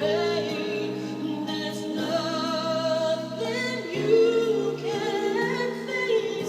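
Music: a pop ballad with a female voice singing long held, wavering notes over instrumental accompaniment.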